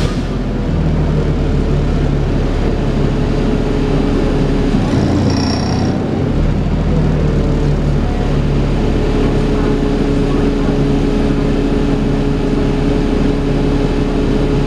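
Dennis Trident 2 double-decker bus running under way, its engine and drivetrain giving a steady whine, the vacuum-cleaner-like 'hoovering' sound. The engine note shifts about halfway through and settles again, with a brief higher sound around the same moment.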